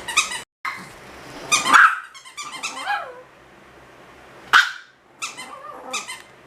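Chihuahua puppy playing with a squeaky toy: a run of short high squeaks mixed with small barks and growls, one squeak louder than the rest past the middle.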